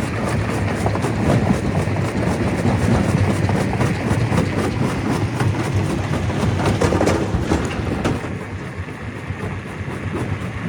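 Stone crusher running, with a dense, rapid clatter of knocks over a steady rumble. The noise drops somewhat about eight seconds in.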